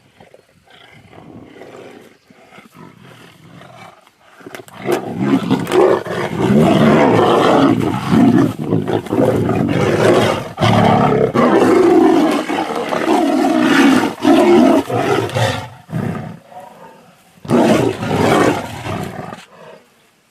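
Two male tigers roaring and snarling as they fight. After a quiet start, loud rough roars come in a long run of bursts from about four seconds in, and one more short burst comes near the end.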